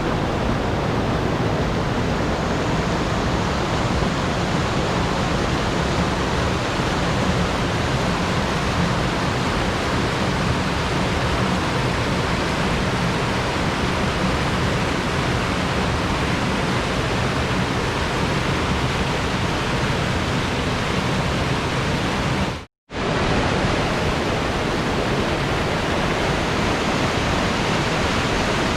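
Steady, even rush of flowing water, with a momentary dropout about 23 seconds in before it carries on unchanged.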